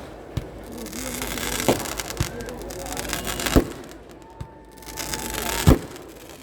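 Festival fireworks going off: a string of sharp bangs at irregular intervals over continuous crackling, the loudest about three and a half and five and a half seconds in. A steady high whistle sounds for about a second and a half just before the last bang.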